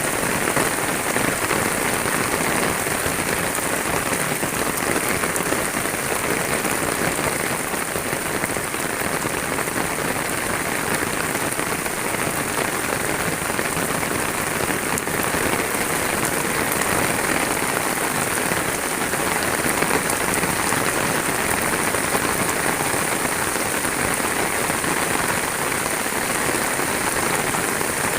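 Steady rain falling, an even continuous hiss with no let-up.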